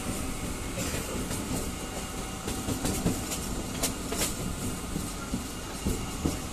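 Local passenger train running, heard from aboard: a steady rumble of wheels on the track with irregular clicks and knocks over rail joints, several sharp ones about three to four seconds in.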